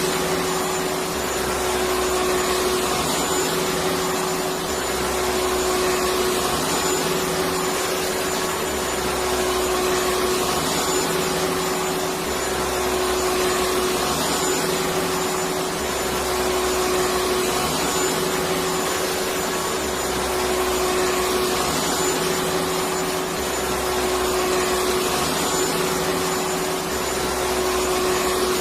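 Electric vacuum cleaner running continuously: a steady whooshing hiss with a constant hum tone. Underneath, a low pulse repeats about every four seconds.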